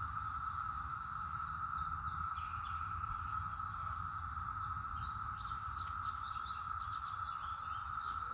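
Steady, unbroken droning chorus of Brood XIV periodical 17-year cicadas. A songbird chirps rapidly over it from about two seconds in until near the end.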